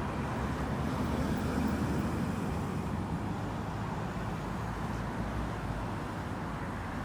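Steady, low, rumbling outdoor noise that swells slightly in the first few seconds, with no distinct events.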